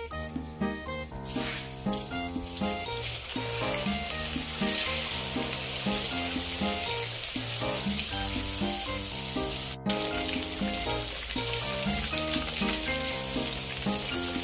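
Slices of egg tofu sizzling as they fry in hot oil in a wok, the sizzle building over the first few seconds as more slices go into the oil. Background music with plucked notes plays throughout, with a brief cut-out about ten seconds in.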